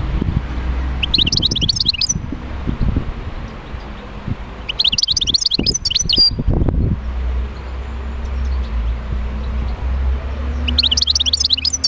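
European goldfinch song: three bursts of rapid, high twittering, the last starting near the end, over a steady low hum.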